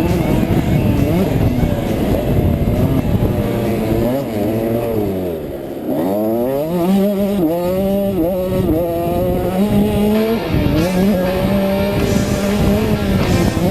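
A KTM 65 two-stroke motocross bike's engine revving on a track. The revs drop away about halfway through as the rider backs off, then climb again in a few rising sweeps as the bike accelerates.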